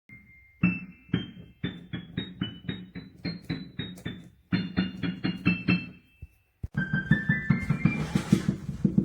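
Piano playing a quick melody of single notes, about three a second, over repeated low bass notes; it breaks off briefly about six seconds in and picks up again.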